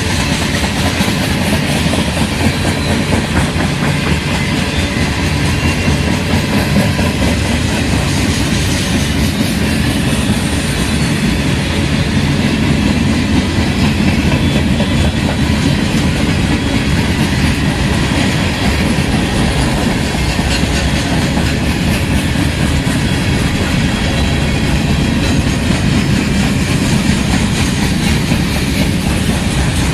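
CN freight train rolling past: a steady loud rumble and clatter of steel wheels on the rails.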